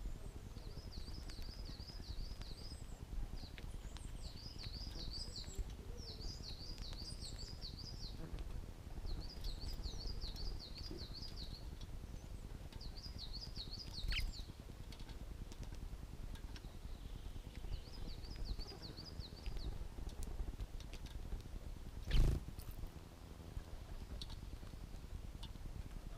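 Dunnock singing: short, high, quick jingling warbles repeated with pauses, about five phrases over a low background rumble. A single sharp thump near the end.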